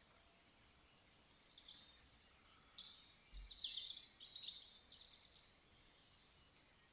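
A songbird singing a series of short, high, chirping and trilled phrases, starting about a second and a half in and stopping about a second before the end, over faint hiss.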